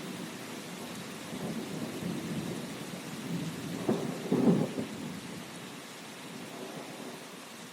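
Steady rain with low rolls of thunder, the loudest about four seconds in, dying away over the last couple of seconds.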